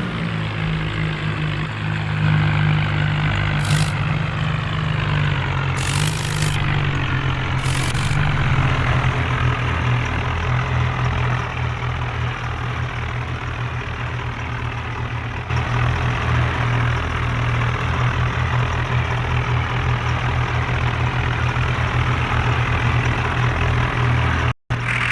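John Deere 5055 tractor's three-cylinder diesel engine running steadily, with a few short hisses in the first eight seconds and a split-second break near the end.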